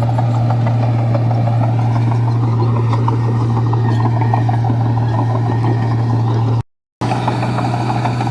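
Komatsu bulldozer's diesel engine running steadily, with a rattling clatter over it. The sound cuts out completely for a moment near the end, then resumes.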